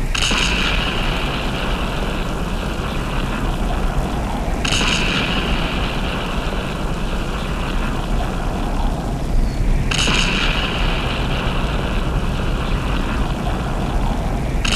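Designed meteor-strike sound effects: three sudden explosive crashes about five seconds apart, each with a hissing tail that fades, over a steady low rumble.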